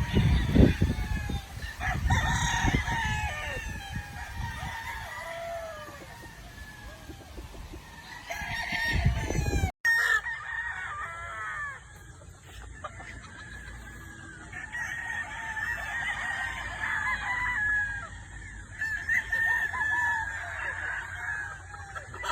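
Many roosters crowing over one another, with hens clucking. Low rumbling noise runs under the first half and stops at a cut about ten seconds in.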